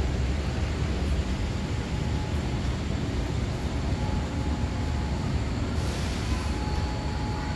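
Train at the platform with a green cargo baggage car at its tail: a steady low rumble, with a faint thin whine appearing about halfway through and a short hiss near the end.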